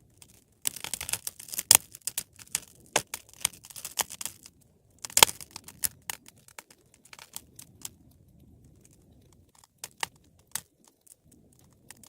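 Wood fire crackling: a dense run of crackles for about four seconds, the loudest single pop just after, then scattered single pops.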